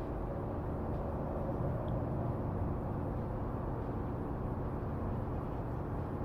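Steady low rumbling background noise with a faint hum, with no distinct knocks or tool strokes.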